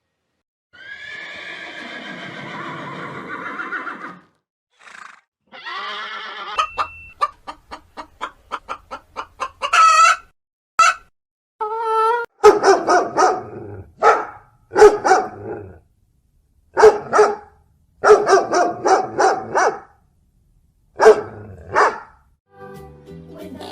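Chickens clucking and cackling: a long call, then a run of quick clucks that speeds up, then repeated loud cackling calls with short pauses between them.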